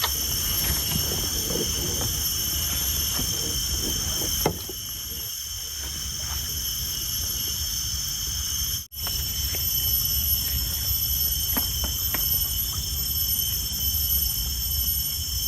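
Insects, crickets or similar, chirring in a steady chorus of several high tones over a low, even background noise, with a few faint light knocks. The whole sound drops out for a moment about nine seconds in.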